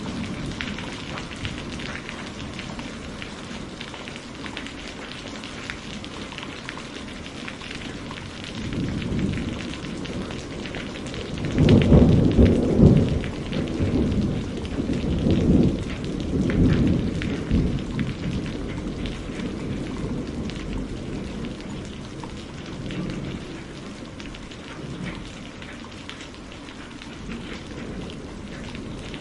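Steady rain pattering, with a roll of thunder that builds about a third of the way through, rumbles loudest for a few seconds, then fades away.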